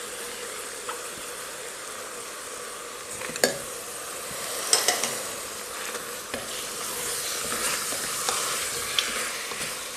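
Beef cubes, bacon, tomato and diced onion sizzling as they fry in a pot, a steady hiss that swells a little in the second half. A few sharp clinks and knocks sound as the onion is tipped in from a glass bowl and the pot is stirred.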